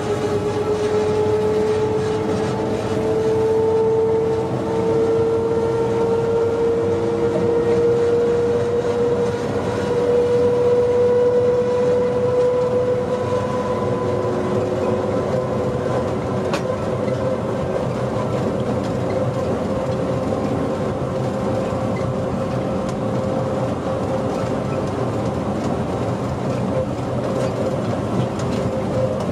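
Electric train running at speed and accelerating, its motor whine a steady tone that rises slowly in pitch, over a constant rumble of wheels on the track.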